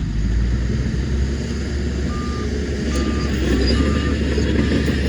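Heavy diesel earthmoving machinery running with a steady low drone, while a reverse alarm starts beeping about two seconds in, short single-pitched beeps at a bit more than one a second.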